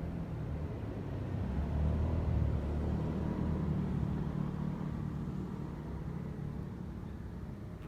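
A vehicle passing: a low rumble that swells to its loudest about two seconds in and then slowly fades.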